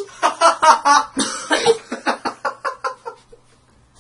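A person coughing in a rapid fit of short, loud coughs that dies away about three seconds in.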